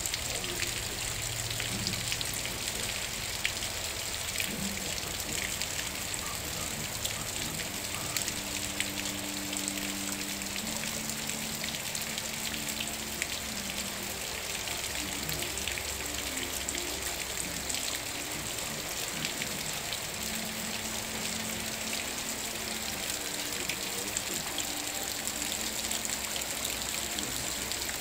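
Heavy rain falling in a steady hiss, thick with the patter of individual drops striking surfaces. A faint low hum comes and goes in the middle.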